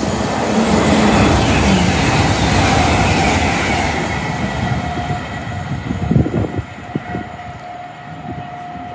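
A GWR Class 800-series Intercity Express Train passes through the station at speed. The loud rush of wheels and air peaks in the first few seconds and then fades, with a whine that drops in pitch as the train goes by. A steady high tone lingers as the train recedes.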